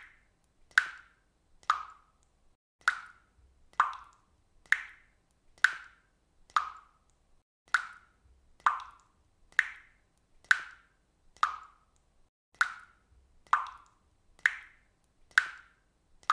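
Water dripping from a faucet, each drop landing with a short plop at an even pace of about one a second.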